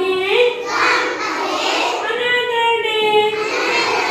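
A child singing a rhyme without accompaniment, in a high voice with long held notes.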